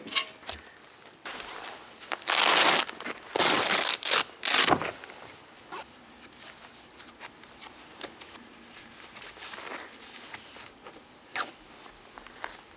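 Crinkling, rustling handling noise, with three loud bursts a couple of seconds in, followed by faint scattered clicks and rustles.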